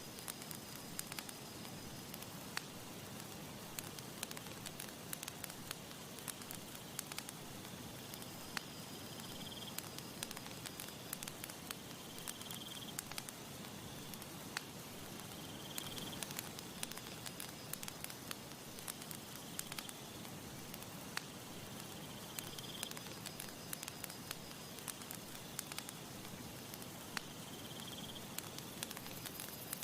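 Wood campfire crackling steadily, with frequent sharp pops and snaps over a soft hiss. Faint short high chirps recur every few seconds.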